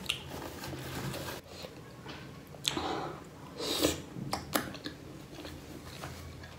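Close-up chewing of a large bite of pork momo, with soft wet mouth sounds and scattered sharp clicks, and a paper napkin rustling just before four seconds in.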